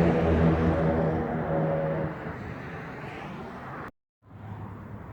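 Steady engine drone and road noise of a moving truck, with a low steady hum, fading somewhat after about two seconds. It cuts out abruptly for a moment near the end, then returns quieter.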